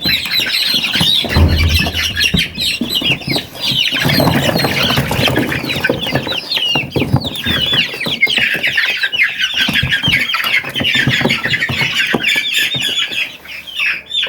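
A flock of young chickens peeping and cheeping continuously, many short, downward-sliding calls overlapping. A dull low thump comes about a second and a half in.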